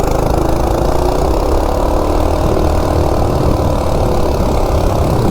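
Coleman RSV minibike's single-cylinder 196cc four-stroke engine, its governor removed, running hard at full throttle as the bike accelerates from a standstill, with wind rumble on the microphone.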